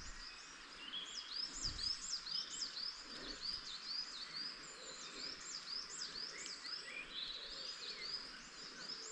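Woodland birdsong: several birds singing at once, with a dense run of quick repeated high chirps.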